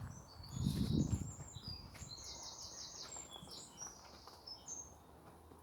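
A small bird singing: a run of short high notes with a quick trill in the middle. A low thud sounds about a second in.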